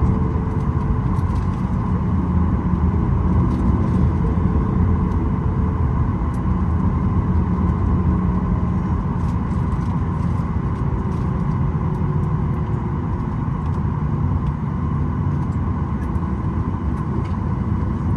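Cabin noise inside a Boeing 737-900ER with its CFM56-7B engines running at idle on the ground: a steady rumble under a steady high whine, with occasional faint clicks.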